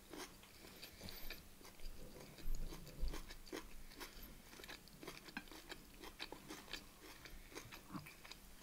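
A person chewing a mouthful of rice with beef mince and vegetables close to the microphone: a faint, continuous run of small wet mouth clicks and crunches.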